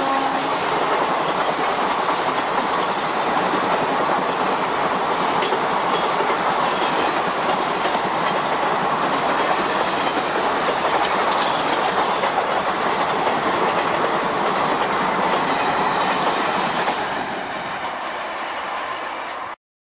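Indian Railways passenger coaches running past at speed, their wheels clattering over the rail joints in a steady clickety-clack, with the end of the train's horn cutting off in the first moment. The sound eases as the last coach goes by near the end, then stops abruptly.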